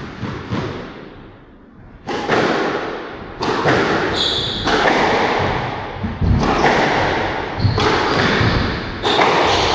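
Squash rally: the ball cracks off rackets and walls roughly once a second, each hit echoing in the court, with a brief shoe squeak about four seconds in.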